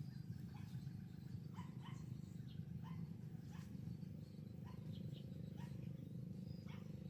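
Society finches giving short, high chirps, about one every half second, over a steady low hum.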